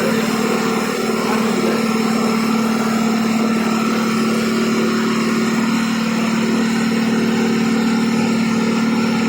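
KSRTC bus's diesel engine running at a steady pitch, holding an even speed without revving.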